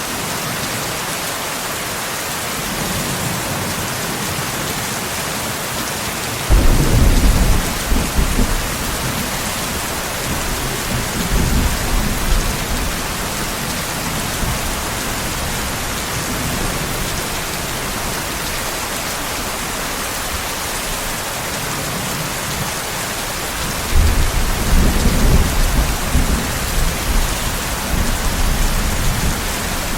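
Steady heavy rain hissing, with rolls of thunder: one breaks in suddenly about a quarter of the way in and rumbles for a few seconds, a weaker roll follows, and another strong roll comes near the end.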